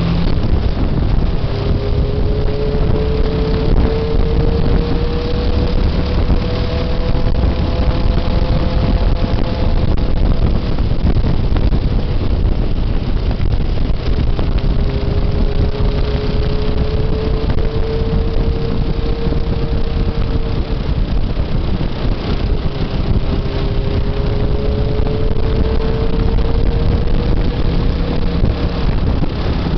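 Motorcycle engine running under way, its note climbing and holding in three long runs with drops between them, as through gear changes. Heavy wind rumble on the microphone lies underneath.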